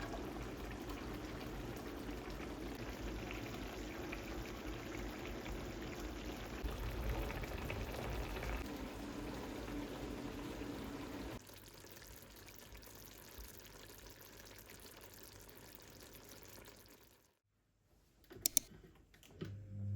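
Water pouring, a steady rush that drops to a quieter hiss about eleven seconds in. Near the end it cuts out, followed by two sharp clicks.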